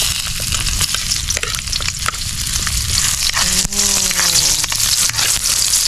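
Garlic and freshly added sliced onion sizzling in hot oil in a metal wok, with a metal spatula repeatedly scraping and tapping the pan as they are stirred.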